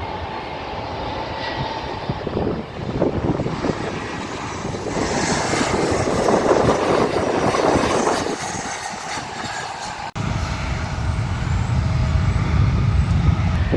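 Jet airliner passing low overhead as it comes in to land, its engine noise building to a peak in the middle and easing off. About ten seconds in the sound cuts abruptly to a steady low rumble.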